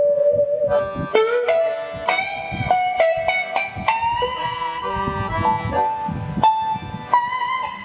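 Guitar and accordion duo playing an instrumental melody: held notes that change every half second or so over plucked guitar.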